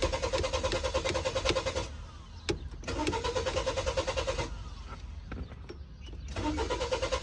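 A car engine cranking on its starter in rhythmic bursts without catching: a hard start where the engine will not fire. One cranking attempt stops about two seconds in, another runs from about three to four and a half seconds, and a third begins near the end.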